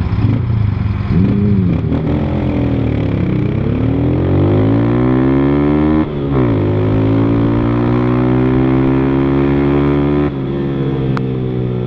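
A 160 cc single-cylinder motorcycle with a Fortuna Trioval aftermarket exhaust accelerating hard. The engine's pitch climbs through a gear, drops sharply at an upshift about six seconds in, climbs again, then eases off near the end.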